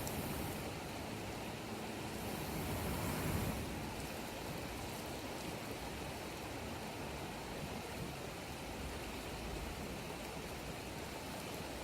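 Campfire burning with a steady rushing noise, rising to a louder hiss for a second or so about three seconds in.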